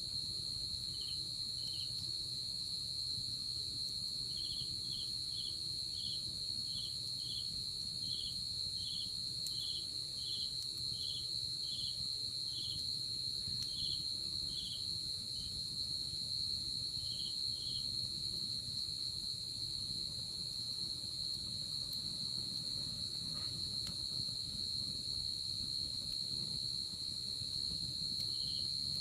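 Night insects calling: one holds an unbroken high-pitched trill, while another adds short chirps at about two a second, stopping for a long stretch partway through and starting again near the end.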